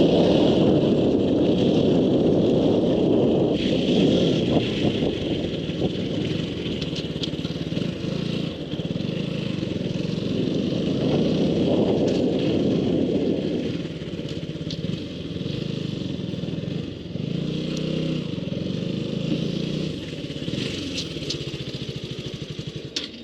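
Motorcycle engine running while it is ridden along a road, with a steady hum under a rushing noise; it gets somewhat quieter about two-thirds of the way through.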